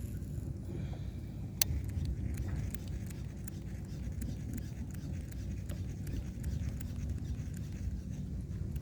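Strong wind rumbling steadily on the microphone, with one sharp click about one and a half seconds in.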